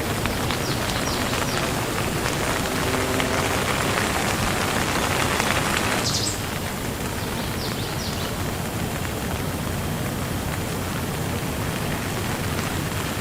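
Steady rain falling, an even hiss with scattered drop sounds; it is a little heavier for the first six seconds, then eases slightly.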